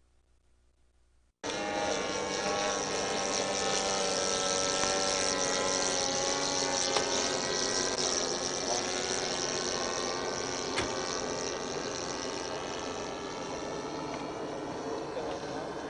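Small model airplane engine running at high speed: a steady, high-pitched buzz whose pitch wavers slightly. It cuts in abruptly after a second and a half of near silence and grows slowly fainter.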